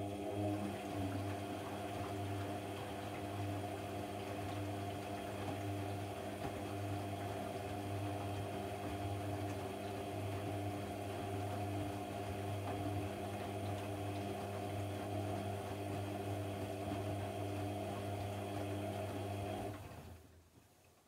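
AEG Lavamat 1400 washing machine running with a steady hum, which stops near the end.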